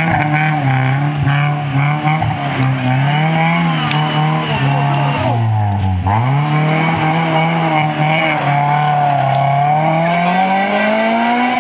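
Honda Civic rally car's four-cylinder engine held at high revs under load, wavering in pitch, dropping sharply about halfway through and then climbing again.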